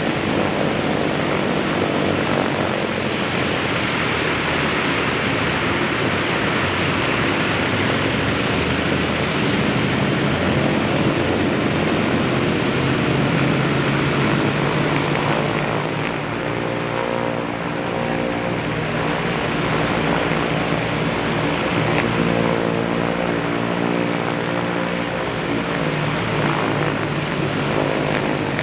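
Radial engines of a B-17 Flying Fortress running with propellers turning, a loud steady drone. About halfway through, a clearer pitched hum comes through the drone.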